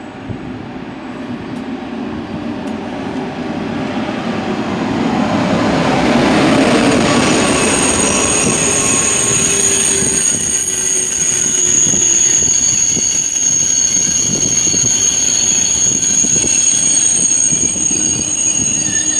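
Two coupled TGV Euroduplex double-deck high-speed trainsets approach, their rolling rumble growing louder over the first few seconds. The coaches then run past close by with a steady, high-pitched wheel squeal.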